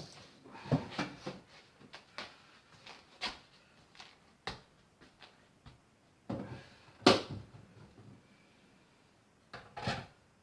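Kitchen handling sounds while water is put on to boil: a string of separate clicks, knocks and clatters, with one louder clunk about seven seconds in and a few more knocks near the end.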